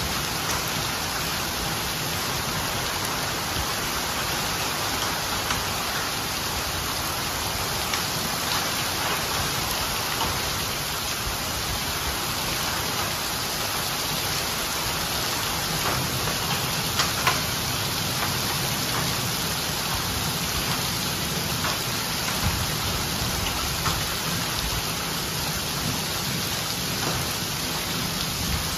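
Torrential rain falling steadily onto flooded pavement, an even heavy hiss with a few sharper taps standing out, two close together about seventeen seconds in.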